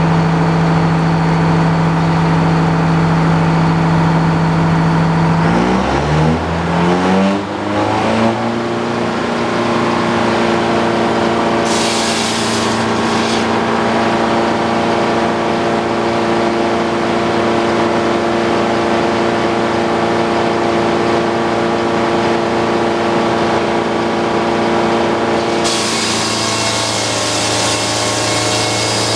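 Circular sawmill's engine running steadily, then revving up about six to eight seconds in and settling at a higher steady speed. Near the end the circular saw blade starts cutting into a treated utility pole, adding a loud hiss of sawing over the engine.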